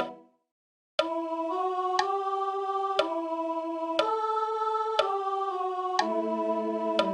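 Four-part hymn harmony held out as sustained electronic organ chords, with a short click on each beat about once a second. The sound dies away at the start, there is a moment of silence, and then the chords come back in about a second in, moving to a new chord on each beat.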